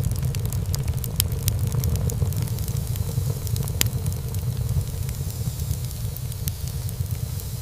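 Wood fire burning in a fireplace, crackling with frequent sharp pops over a steady low rumble of flame.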